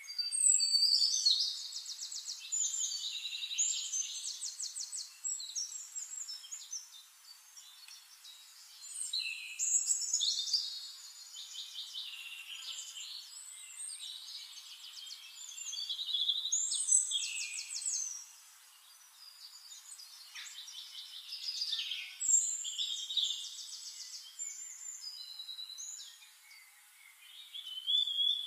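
Songbirds singing: high-pitched chirps and rapid trills in overlapping phrases that swell and fade every few seconds, loudest near the start and again a little past the middle.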